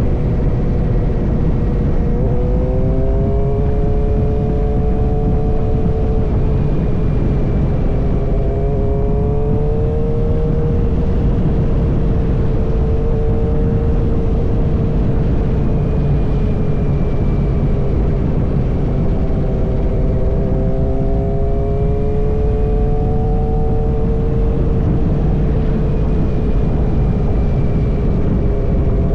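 Suzuki Gixer motorcycle running through an M4 full-system exhaust, its engine note held steady with slow small rises and falls in pitch as the speed changes, over a continuous rushing noise.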